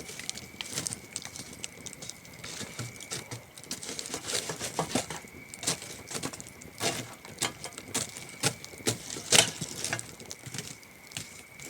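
Wood campfire crackling, with irregular sharp snaps, the loudest a little past nine seconds in. A steady high cricket trill runs underneath in long stretches.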